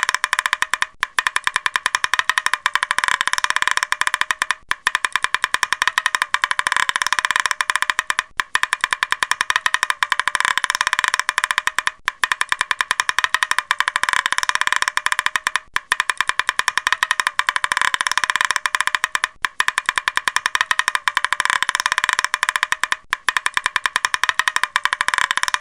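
Woodpecker tapping: a very fast, dense run of sharp wooden taps that crackles, breaking off briefly and restarting about every three and a half seconds.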